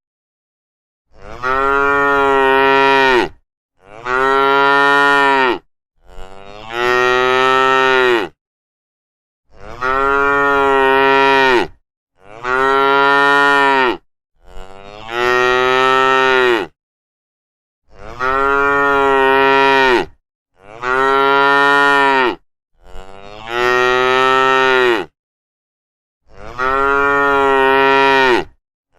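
Cattle mooing: ten long, drawn-out moos of about two seconds each, all nearly alike in pitch and shape, with complete silence between them.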